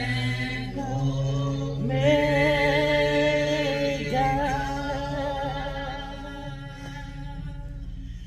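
Church worship singing: a slow praise song sung by voices holding long, drawn-out notes.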